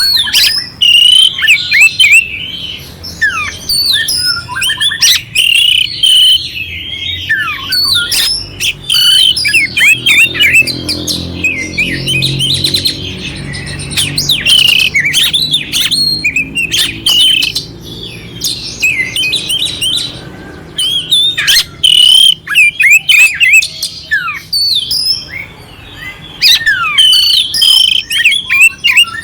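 Oriental magpie-robin (kacer) singing continuously: a fast, varied run of clear whistled phrases mixed with harsh, scratchy fill notes.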